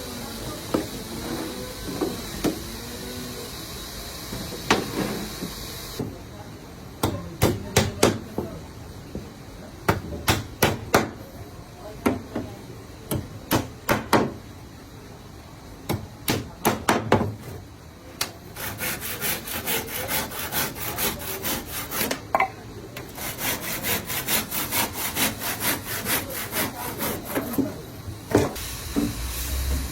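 Wood being worked by hand on a wooden boat: rubbing and sawing at first, then a run of sharp, separate knocks like hammer blows from about seven seconds in, then a long run of quick, even strokes.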